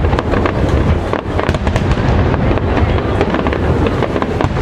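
Fireworks display going off: many shells in quick succession, a dense crackle of sharp reports over a continuous low rumble.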